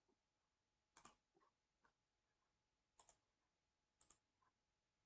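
Faint computer mouse clicks, about half a dozen, some in quick pairs like double-clicks, as text is selected and copied; otherwise near silence.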